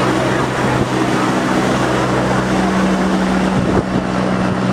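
Helicopter running close by: a steady, loud rush of engine and rotor noise over a low, even drone.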